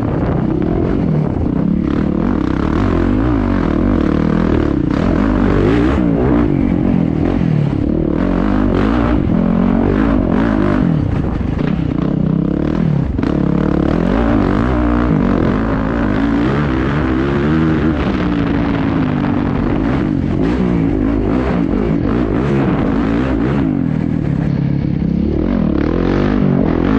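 Single-cylinder four-stroke engine of a Yamaha YZ450FX off-road motorcycle ridden hard on a dirt track. Its pitch rises and falls repeatedly with throttle and gear changes, and knocks and clatter come from the bike over the rough ground.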